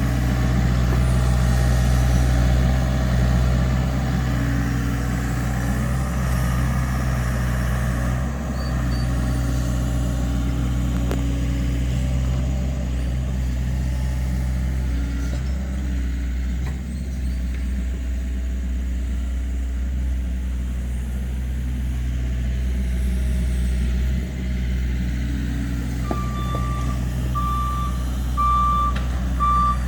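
LiuGong mini excavator's diesel engine running steadily while it works. Near the end its travel alarm starts beeping, a short high beep about once a second, as the machine moves on its tracks.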